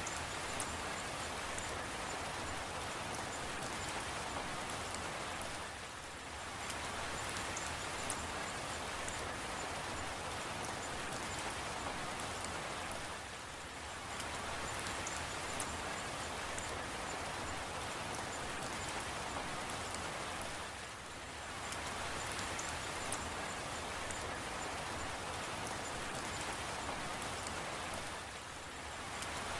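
Steady rain falling, a continuous hiss with scattered drop ticks, dipping briefly in level about every seven and a half seconds.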